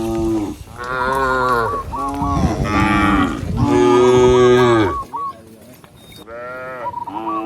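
Cows mooing repeatedly, one loud call after another with pitches that fall away. The loudest call comes about four seconds in, followed by a short lull and two more shorter moos near the end.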